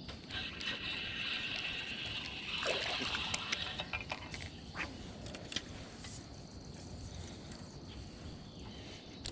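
Creek water splashing and trickling, with a few sharp clicks scattered through it.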